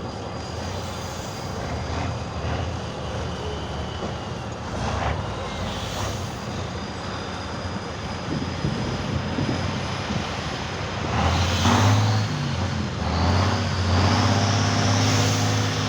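Competition trial truck's engine running under load off-road, growing louder and revving up about two-thirds of the way through.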